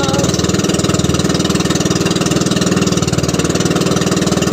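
Small fishing boat's engine running steadily while trolling, with a rapid, even firing beat.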